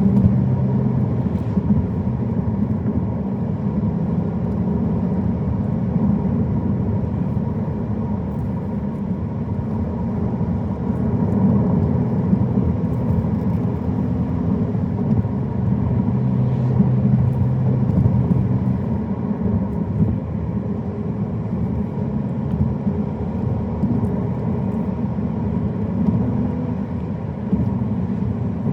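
Car driving steadily: engine hum with tyre and road noise, the engine pitch shifting slightly now and then.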